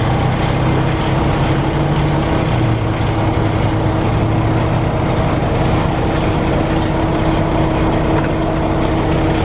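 Diesel truck engine idling steadily, with a constant hum. Its low drone drops slightly in pitch about two and a half seconds in.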